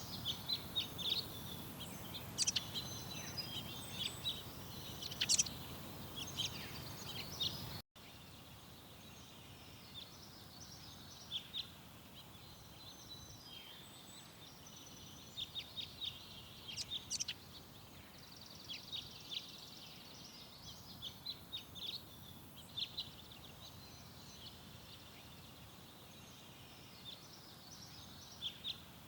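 Garden birds chirping and singing, a steady stream of short high calls and trills over outdoor background noise. About eight seconds in, the sound cuts off abruptly and resumes with a quieter background.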